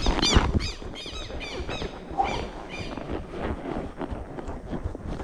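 A bird calling a rapid run of about ten short squawking notes, each rising then falling in pitch, fading out about three seconds in. Faint irregular knocks and wind noise sit underneath.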